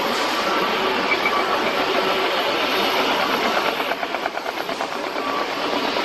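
Jet engines of a China Airlines Airbus A321neo airliner running with a steady broad roar, with a brief rapid pulsing in the roar about four seconds in.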